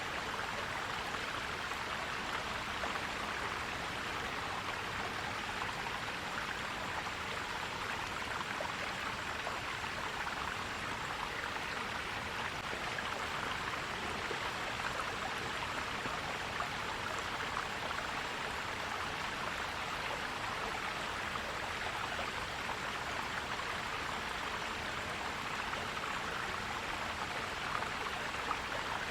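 Forest stream flowing and gurgling steadily, an even rush of water with no let-up.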